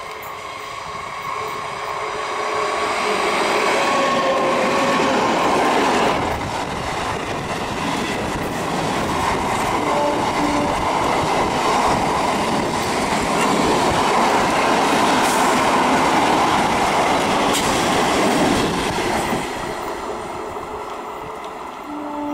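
A 12-coach electric multiple unit (EMU) local train running past at speed: a steady whine and a growing rush of wheels on rail over the first few seconds, then a loud continuous rushing with a few knocks as the coaches go by, fading over the last few seconds.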